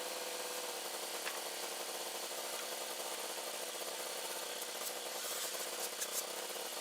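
Wood-Mizer LT15 band sawmill running, heard thin without any low rumble: a steady hiss with a few faint ticks.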